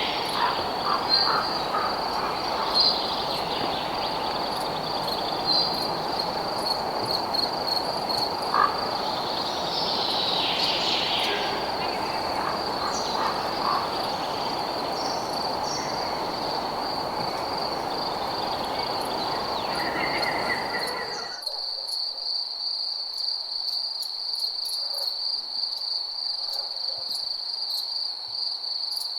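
Crickets chirping in a steady, pulsing high trill over a dense lower chorus of frogs and night noise. The lower chorus cuts off suddenly about two-thirds of the way through, leaving the crickets alone.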